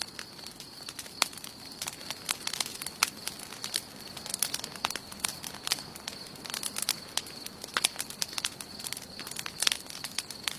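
Wood campfire burning, crackling with irregular sharp pops several times a second, over a steady high-pitched drone.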